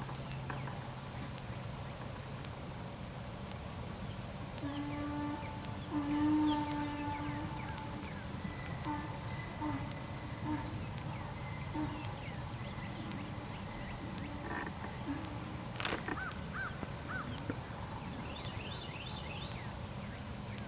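Outdoor rural ambience: a steady, high insect drone throughout. Over it come a few drawn-out animal calls about five to eight seconds in, a single sharp click about sixteen seconds in, and short repeated bird chirps near the end.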